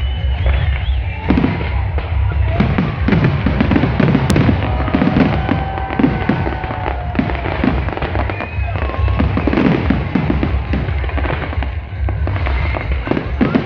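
Aerial fireworks bursting overhead: a dense, continuous string of bangs and crackles from exploding shells over a deep rumble.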